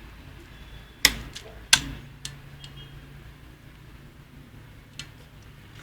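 A few sharp clicks from a mountain bike's gear shifter being worked: two loud ones about a second in and a few fainter ones after, then a single click near the end.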